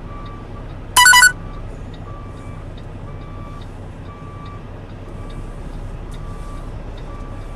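Reversing alarm beeping at about one beep a second over the low, steady running of a semi truck backing up. About a second in, a loud, short, high-pitched tone cuts in.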